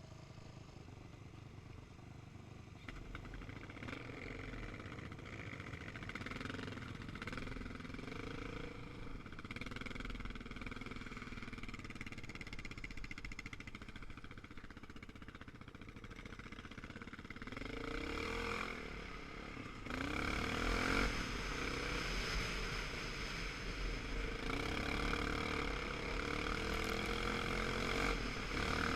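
Motorcycle engine running and revving up and down as it rides, its pitch rising and falling several times. It gets louder about two-thirds of the way through.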